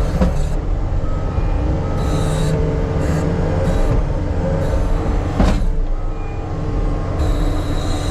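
Diesel engine of heavy earthmoving equipment running steadily under work, with high-pitched squealing that comes and goes and a single sharp knock about five and a half seconds in.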